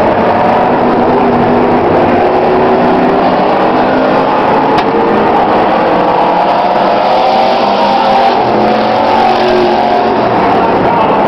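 Several demo trucks' engines running together on a race track, revving up and down, loud and continuous.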